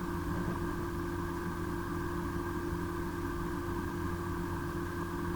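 A steady machine hum with several fixed tones over a low hiss, unchanging.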